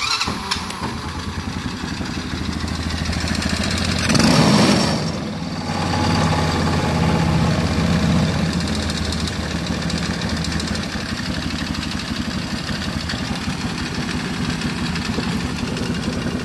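Kazuma 110cc single-cylinder four-stroke ATV engine, swapped into a go-kart, starting on its electric push-button starter and running. It gets briefly louder about four seconds in, then settles into a steady idle.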